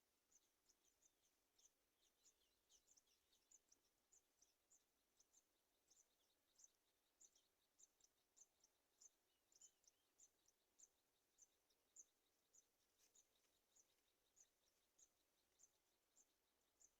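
Near silence with faint, short, high chirps repeating about twice a second.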